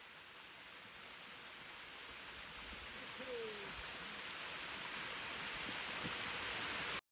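Steady rushing of flowing water, growing louder and then cutting off abruptly near the end, with one short falling tone about halfway through.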